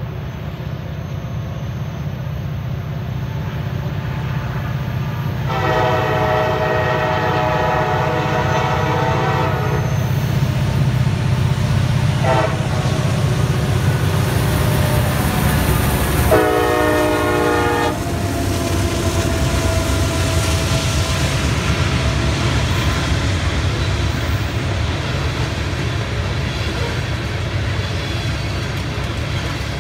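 CSX EMD SD40-3 diesel locomotive approaching and passing, its engine rumbling under a long air-horn blast, a brief toot and a second shorter blast, with the horn ending as the engine goes by. Loaded ethanol tank cars then roll past with clickety-clack from the wheels.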